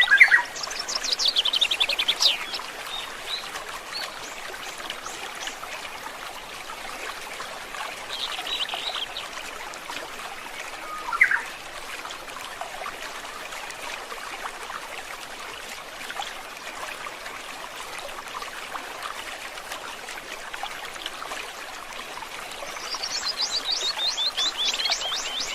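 A forest stream trickling steadily, with songbirds singing over it. A fast trill of rapid notes falling in pitch comes at the start and again near the end, and a single short rising call about eleven seconds in.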